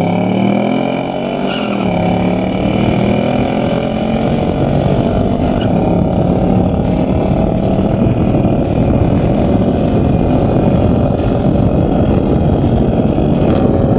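Oldsmobile W-31 350 V8 at full throttle on a drag-strip pass, with tyre and wind noise under it. The engine pitch climbs, breaks at a gear change about two seconds in, then keeps rising steadily.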